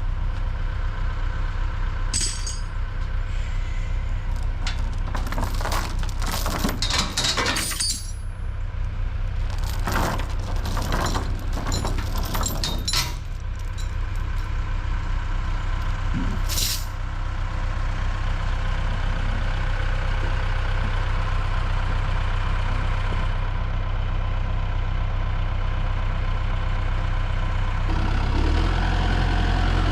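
A vehicle engine running steadily, with repeated metallic clanks and rattles in the first half and one more clank a few seconds later. The engine note deepens and grows louder near the end.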